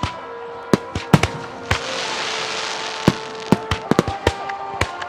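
Aerial fireworks shells bursting in quick succession, about a dozen sharp bangs, with a hissing crackle of burning stars about two seconds in. Music with held notes plays underneath.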